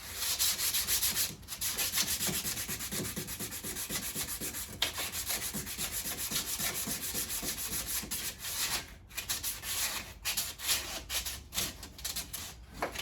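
Sandpaper rubbed by hand over the painted steel of a car's door jamb in quick back-and-forth strokes, scuffing off the old finish so primer will stick. The sanding breaks off briefly about a second and a half in and again about nine seconds in.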